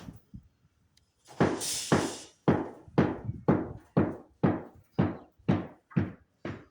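Steady, even knocking blows, about two a second, starting about a second and a half in, each a sharp hit with a short fading tail. It is typical of repeated hand-tool strikes during building work.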